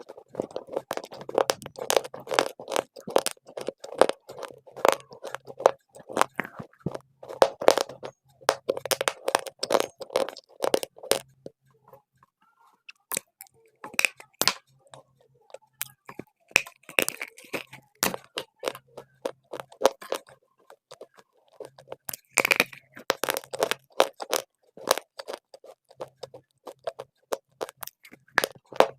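Dry clay being bitten and chewed close to the microphone: rapid crunching and crackling in bouts, with short pauses between mouthfuls.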